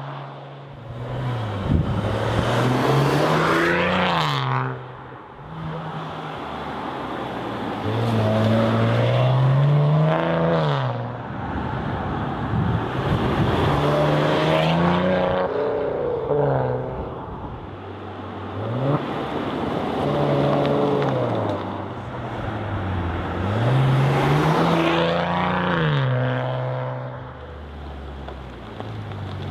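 Maserati Ghibli SQ4's 3.0-litre V6 engine and exhaust, revving up and falling back again several times as the car accelerates hard.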